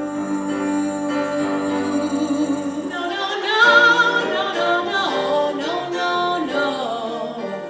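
A woman singing with piano accompaniment: one long held note, then from about three seconds in a melodic line that moves up and down, loudest about four seconds in.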